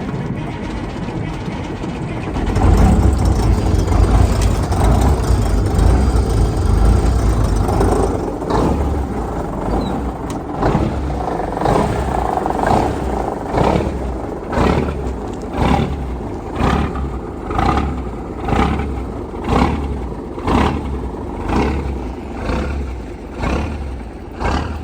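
Cummins 855 Big Cam inline-six diesel in a 1972 Ford L900 dump truck, cold-starting after sitting all winter. It turns over for a couple of seconds, catches about two and a half seconds in and runs loud for several seconds, then settles to a lower run with a regular pulse about once a second.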